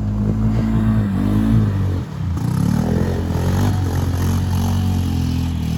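ATV engine running under load and revving, its pitch dropping about two seconds in and then climbing again, with clatter and scraping mixed in.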